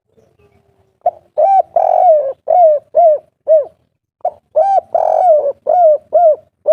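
Spotted dove (tekukur) singing the 'kuk 3' cooing song: two phrases of low coos, each a short note, a longer drawn coo, then a run of short arched coos.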